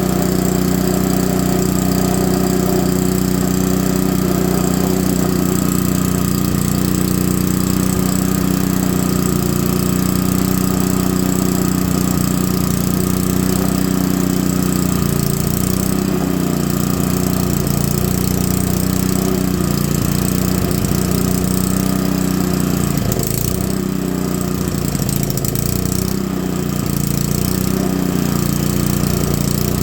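Honda GX110 single-cylinder four-stroke engine running steadily after repair, its speed wavering slightly for a few seconds in the second half.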